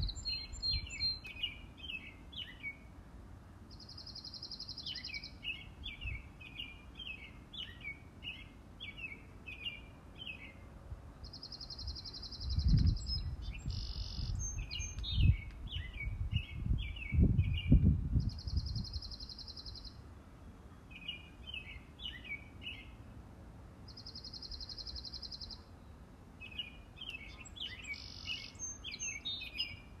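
Songbirds singing: one bird repeats a high, dry, evenly pulsed trill about every six seconds, and runs of quick twittering chirps fill the gaps. A low rumble swells through the middle and is the loudest sound there.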